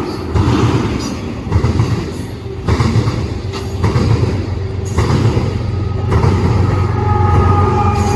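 Freight cars of a long mixed train rolling past: a steady heavy rumble with irregular clacks of wheels over rail joints. In the second half a high wheel squeal sets in and holds.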